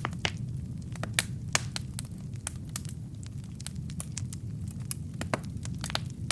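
Wood fire in a fireplace: burning logs crackling with irregular sharp pops and snaps over a steady low rumble of flame, a few louder pops through the stretch.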